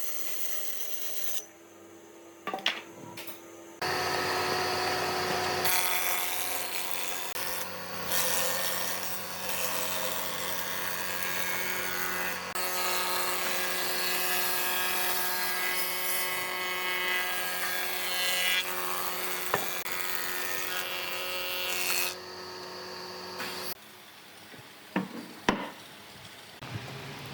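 A power tool cutting or abrading wood, a steady motor hum under a coarse rasping noise. It runs in several abruptly cut stretches, with a few sharp knocks in the quieter parts near the start and the end.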